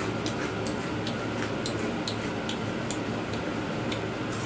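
Chewing crispy deep-fried small yellow croaker with the mouth close to the microphone: a run of sharp, irregular crunches over a steady low hum.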